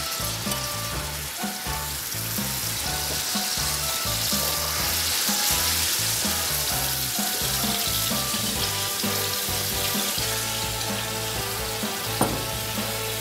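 Chopped tomatoes frying in hot olive oil in an aluminium pan, a steady sizzle, over background music. There is one sharp knock near the end.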